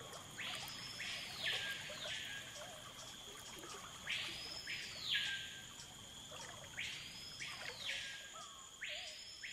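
A bird calling four times, a few seconds apart: each call is a long note that sweeps up, holds high, then slides back down. Under it runs a faint, steady high-pitched drone.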